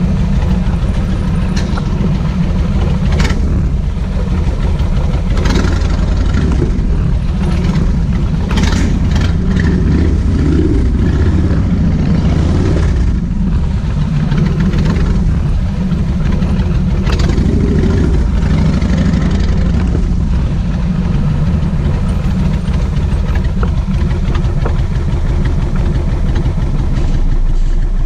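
Kawasaki VN 1600 Mean Streak's V-twin engine running steadily, with a few brief sharper sounds over it.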